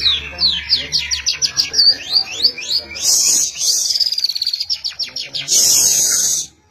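Tiarap songbird singing loudly: a fast run of sharp, high, downward-sweeping notes, about five a second, broken twice by harsh rasping bursts, the second lasting about a second near the end, then cutting off abruptly.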